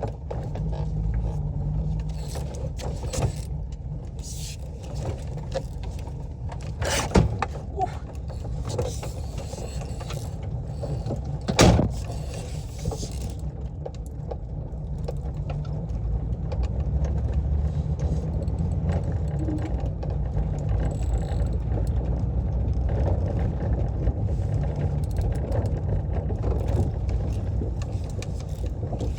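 VW T3 van engine running as the van drives, heard from inside the cab as a steady low rumble that grows a little louder about halfway through. An exhaust leak makes it sound rough. Two sharp knocks come about seven and twelve seconds in.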